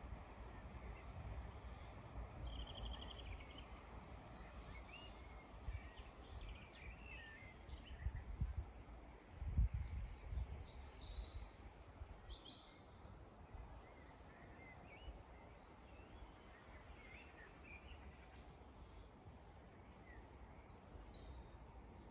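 Birds chirping and trilling in scattered short calls over a faint low rumble, which swells briefly about nine to ten seconds in.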